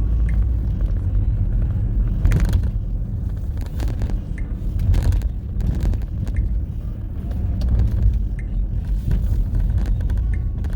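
Low, steady rumble of a car driving, with a few short knocks scattered through it.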